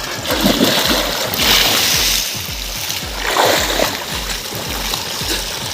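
Water splashing in a tarp-lined tractor trolley used as a pool, in bursts about a second and a half in and again near three and a half seconds. Background music with a steady low beat plays throughout.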